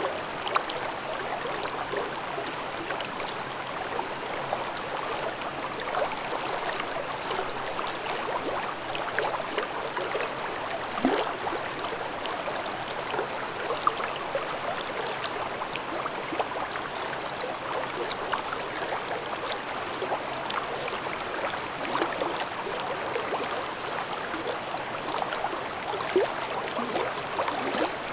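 Mountain stream babbling steadily over rocks, with small gurgles and splashes scattered throughout.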